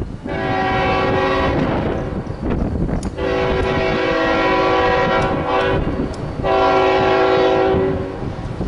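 Locomotive air horn sounding three blasts, the middle one the longest, over the low rumble of a passing train.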